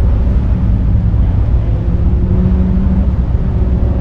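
A car engine idling steadily with a low rumble.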